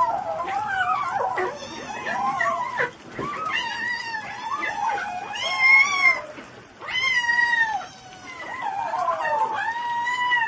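A cat yowling: a string of drawn-out, wavering calls that rise and fall in pitch, one after another with short breaks.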